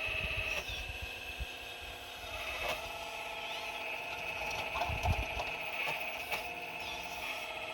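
4200XL excavator's small motors running with a steady high whine while it digs, with low knocks and a few short scrapes of rock, the strongest knock about five seconds in.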